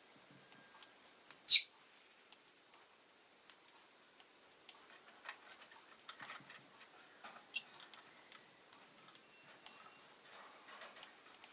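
Rosy-faced lovebird giving one sharp, high chirp about a second and a half in, among scattered small clicks and taps.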